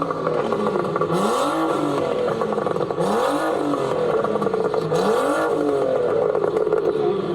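A car engine revving in repeated rises and falls about every two seconds, each peak joined by a burst of tyre hiss, typical of a car spinning donuts.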